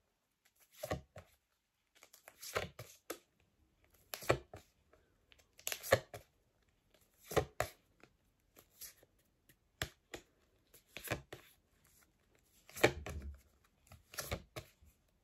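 Stack of phonics flashcards being flicked through by hand, a sharp papery slap or flick as each card is turned, about one every second and a half.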